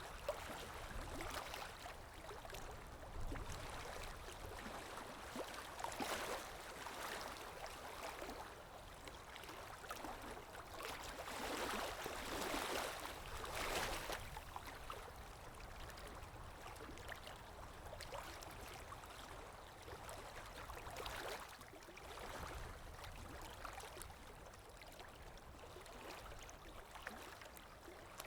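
Underwater ambience: water gurgling and swishing continuously, rising and falling in slow, irregular swells.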